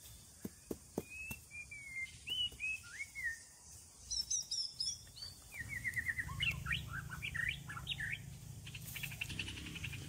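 Small wild birds chirping and singing: a string of short whistled calls that slide down in pitch, then higher, quicker chirps and trills in the second half. A few soft taps are heard near the start.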